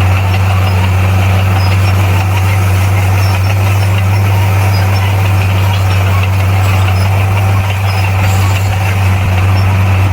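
Heavy diesel engine of earthmoving machinery running steadily at a constant speed, a loud, even low drone.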